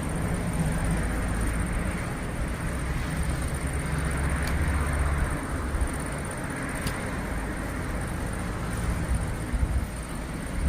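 Thunder rumbling low and rolling, swelling to its strongest about four to five seconds in, then easing off.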